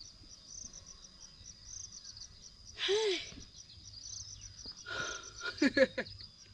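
Insects, likely crickets, chirping: a steady high ringing with regular pulses about three a second. A voice calls "hey" about halfway through, with more brief voice sounds shortly after.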